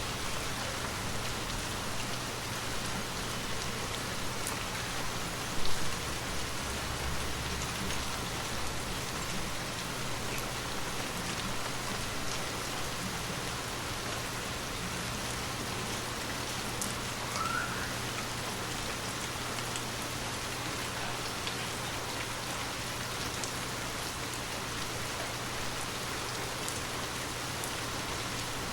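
Gentle rain falling steadily, an even hiss of drops. About six seconds in there is a single short knock, the loudest moment, followed by a brief low rumble. A short rising chirp comes a little past halfway.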